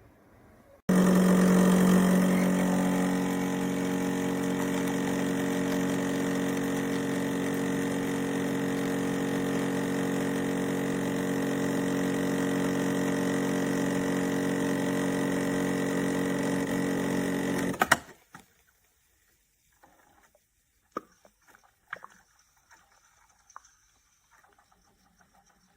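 Black+Decker BXCO1200E espresso machine's pump running with a steady buzzing hum for about seventeen seconds, as when it pushes water through to brew. It starts about a second in and cuts off suddenly with a click, followed by a few faint ticks.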